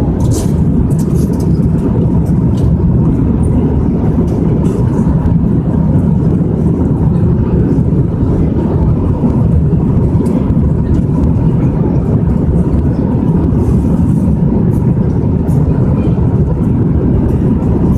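Steady low rumble of an airliner's cabin in flight, with faint scattered clicks.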